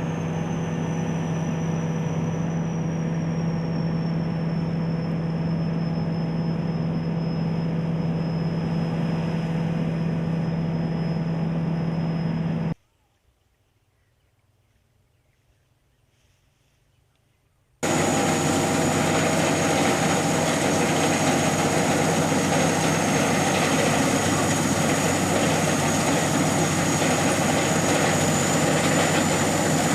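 SS-200 A rice combine harvester running steadily, a low engine hum under a high whine from the machinery. A little under halfway through it cuts abruptly to near silence for about five seconds, then the machine noise cuts back in with a slightly higher whine.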